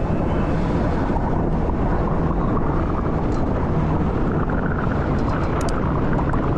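Wind buffeting a riding cyclist's camera microphone, a steady loud rumbling rush with no break.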